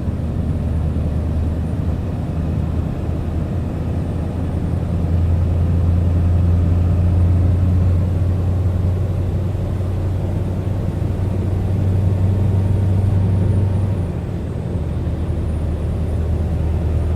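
Scania R580 truck's V8 diesel engine running with a steady low drone, growing louder about five seconds in and easing back a few seconds before the end.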